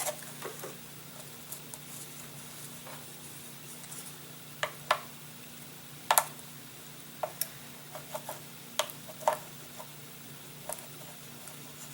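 Ultra-thin plastic covering film crinkling and crackling as it is handled and laid onto a balsa wing part, in scattered sharp crackles a second or so apart, over a faint steady hum.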